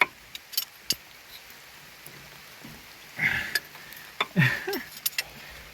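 A few sharp metal clicks of a wrench on a stuck, stripping fitting, then a man grunting with effort as he strains against it, over light rain pattering.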